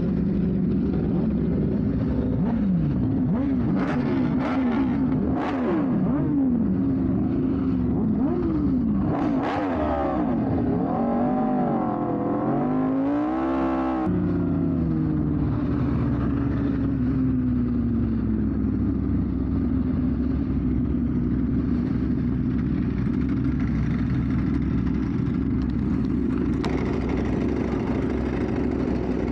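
Motor vehicle engines running and revving: the pitch rises and falls repeatedly through the first half, then settles into a steady drone after a sudden change about halfway through.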